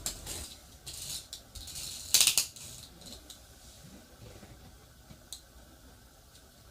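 Small hard parts clicking and rattling at close range, with a short, louder rattle a couple of seconds in and scattered light ticks after it.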